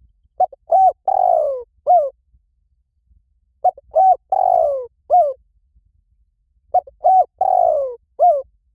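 Spotted dove cooing: three identical phrases about three seconds apart, each a few short coos, then a longer falling coo and a last short coo.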